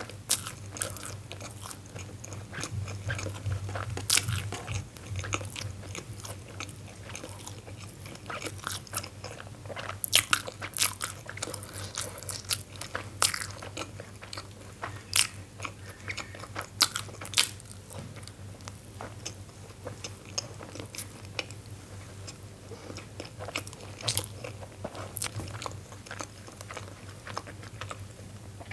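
Close-miked biting and chewing of steamed momos (dumplings), with many short, sharp wet mouth clicks, over a faint steady low hum.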